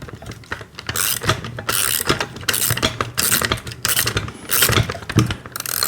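Ratchet wrench clicking in repeated back-and-forth strokes as it snugs down an axle nut on a kids' ride-on motorcycle.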